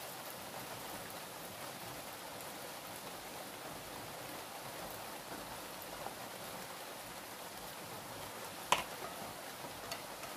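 Steady rain falling, an even hiss of drops, with a single sharp click near the end.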